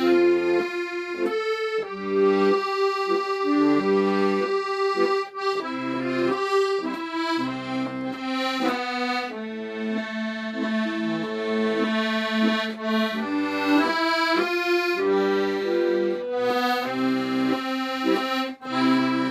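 Accordion playing a Korean folk song melody in sustained, reedy notes over held bass and chord notes, with a brief break near the end.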